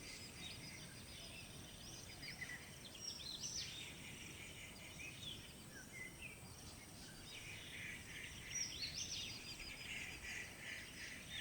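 Faint outdoor ambience with scattered bird chirps and short rising and falling calls, over a low background hiss.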